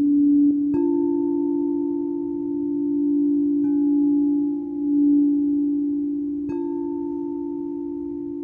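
Singing bowls struck about every three seconds, their low, overlapping tones ringing on between strikes with a slow wavering beat.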